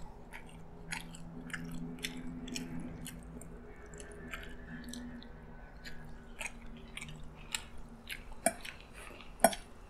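Close-miked chewing of a mouthful of rice, with scattered sharp clicks from the mouth and from a fork and spoon tapping and scraping on a ceramic plate as the food is mixed. A faint low hum runs underneath for a few seconds.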